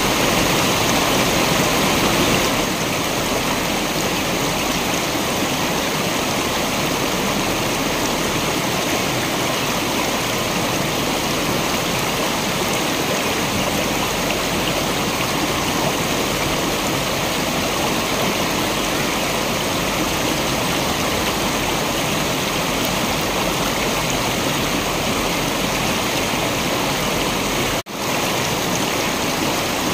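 Waterfall water rushing in a steady, even roar. It cuts out for an instant about two seconds before the end, a splice in the recording.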